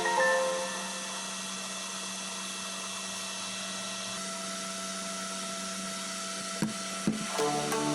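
Small 12 V cooling fans on a Peltier module's heat sinks running with a steady whir and hum. There are two sharp clicks near the end.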